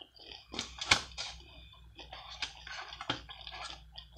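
Close-miked chewing of a soft flour-tortilla brisket taco: wet mouth clicks and smacks, sharpest about a second in, then softer crackly chewing.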